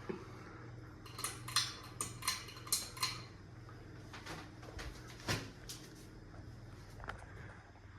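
Hampton Bay ceiling fan running with a steady low hum. About a second in comes a quick run of five sharp metallic clinks, followed by a few scattered fainter clicks, one louder about five seconds in.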